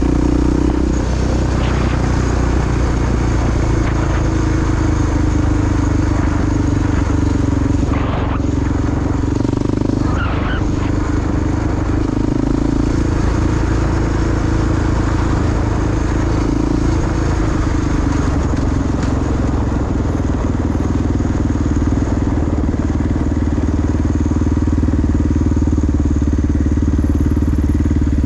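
Honda XR dirt bike's big single-cylinder four-stroke engine running steadily under way, its note dipping and rising a few times with throttle changes.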